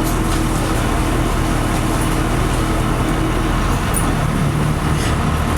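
LiAZ-5256 city bus driving, heard from aboard: a steady drone of engine and road noise. The engine's note shifts about three and a half seconds in.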